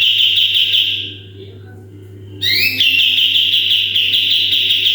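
Kapas tembak songbird singing its 'tembakan' song in two loud phrases. Each opens with quick rising notes and breaks into a fast, even trill; the first phrase stops about a second in and the second starts about halfway through. A low steady hum runs underneath.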